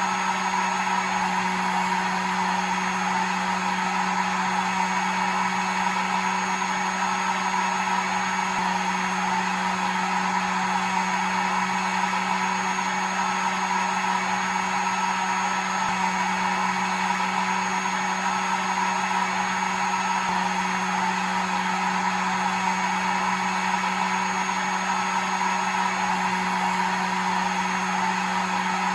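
Hair dryer running steadily: an even rushing blow with a constant motor hum.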